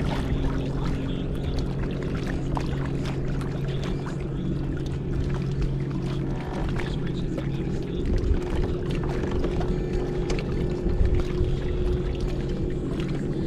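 Native Watercraft pedal-drive kayak underway: the propeller drive hums steadily as it is pedalled, with water sloshing and small clicks and splashes against the hull.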